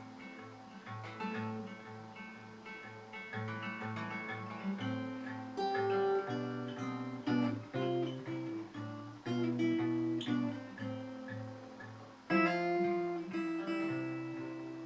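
Acoustic guitar playing an instrumental passage: picked notes over a steadily repeating low bass note, with a louder strummed chord about twelve seconds in.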